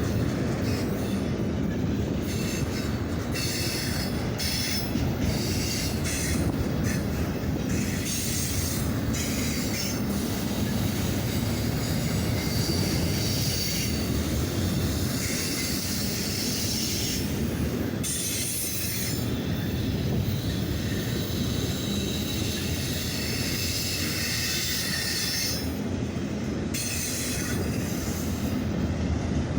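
Autorack freight cars rolling steadily past on the rails, a continuous rumble with wheels squealing and screeching at times.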